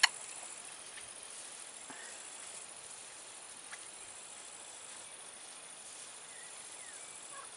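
Faint, steady high-pitched trilling of crickets, with a couple of small clicks.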